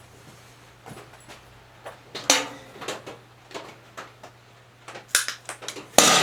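Sharp clicks and metallic clinks of hand tools trimming a quarter-inch rubber fuel line at the bench, over a faint steady hum. One loud click comes about two seconds in, a few quicker ones come about five seconds in, and the loudest comes near the end.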